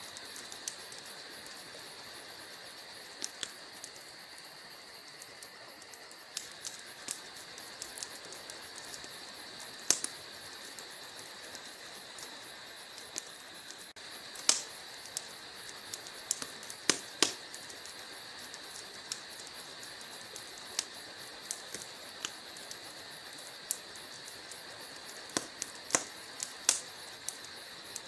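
Logs burning in a fireplace: irregular sharp crackles and pops over a steady hiss, a few pops much louder than the rest.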